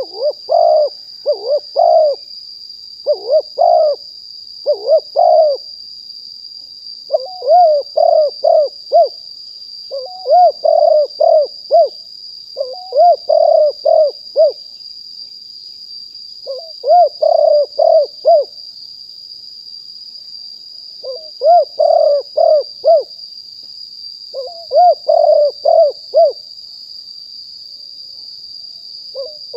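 Spotted dove cooing: about nine repeated phrases, each of three to five quick coos, with short pauses between phrases, over a steady high-pitched whine.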